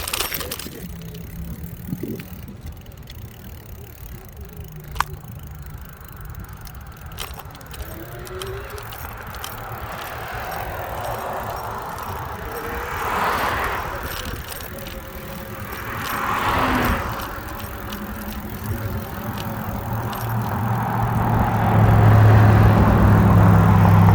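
Wind and road noise while cycling along a road. Two vehicles swell past a few seconds apart about halfway through, and a motor vehicle's low engine hum grows louder toward the end.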